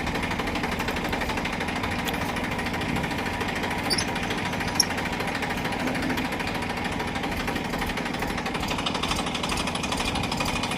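A power tool runs steadily with a fast, even rattle. Two brief sharp ticks come about four and five seconds in.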